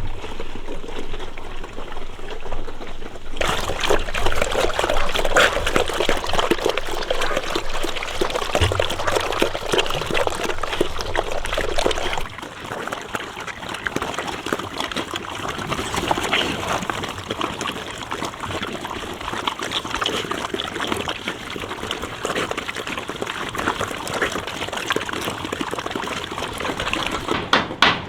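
Water running and splashing with a crackling texture; it grows louder about three seconds in and drops back about twelve seconds in. Near the end, hammer blows start at a steady pace of several strikes a second.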